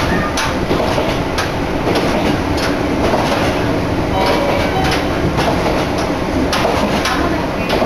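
Abukuma Express train running along the line, heard from on board: a steady rumble and rush with irregular clacks as the wheels cross rail joints, and wind blowing in past the microphone.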